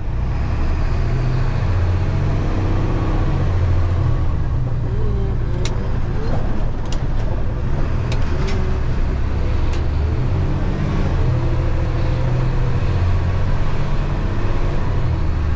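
Delivery truck engine pulling away from a green light and running steadily under way, heard from inside the cab as a strong low rumble, with a few light clicks in the middle.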